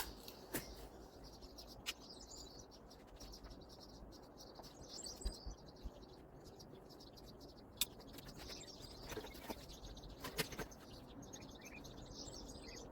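Faint birds chirping in the background, with a few scattered clicks; no chainsaw is running.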